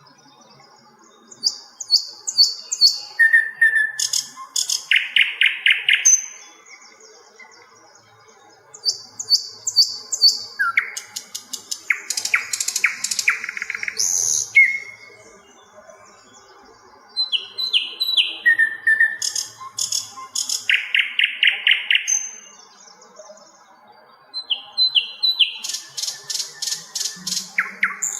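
Sikatan londo flycatcher singing in bouts: rapid runs of repeated high whistled notes and trills, each phrase lasting a few seconds, with short pauses between them.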